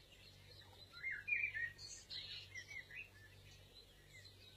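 Faint songbird chirping: a run of short, quick chirps between about one and three seconds in, over a low steady hum.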